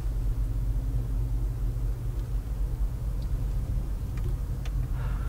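A vehicle engine idling, a steady low rumble with a constant hum and no change in pitch.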